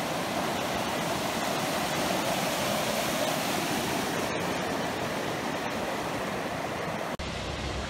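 Steady rush of falling water. About 7 seconds in it breaks off briefly and carries on with more low rumble.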